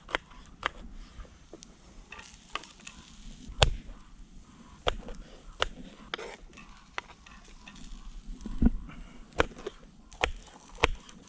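Onions sizzling in a frying pan over a campfire, stirred with a utensil that clicks and knocks against the pan at uneven intervals, the loudest knock about three and a half seconds in.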